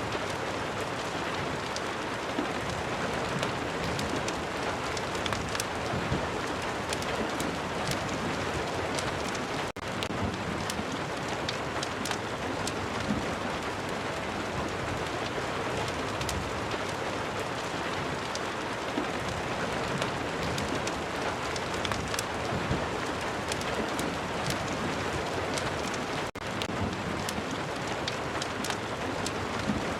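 Steady, even rain mixed with a crackling fire, with frequent small sharp pops and ticks throughout. The sound dips out for an instant twice, about ten seconds in and again near the end.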